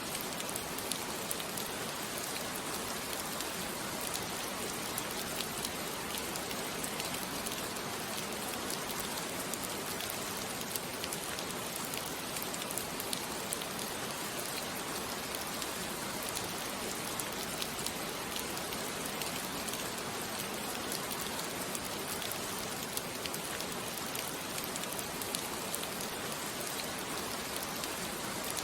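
Steady rain falling, with small scattered drop ticks over an even hiss: a rain sound bed.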